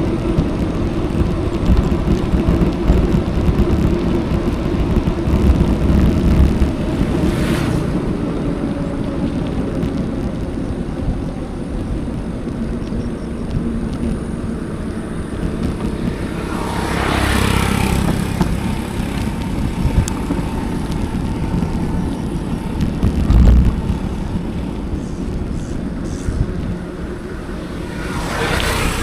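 Steady wind rumble on an action camera's microphone while riding a bicycle, with road and tyre noise underneath. A louder, hissier swell comes about two-thirds of the way through, and another near the end.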